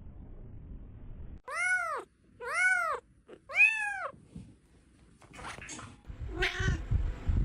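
Domestic cat meowing three times in a row, about a second apart, each meow rising then falling in pitch. A short rustle and a brief voice follow near the end.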